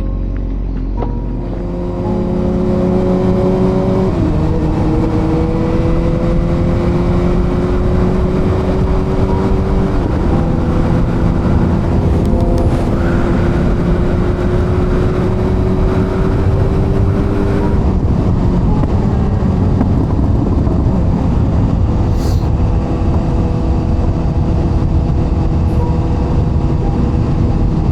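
Suzuki GSX-R750 inline-four engine running under way, its pitch climbing slowly with brief dips at upshifts about 4 and 10 seconds in, then levelling off and easing slightly in the second half. A steady rush of wind noise sits under the engine.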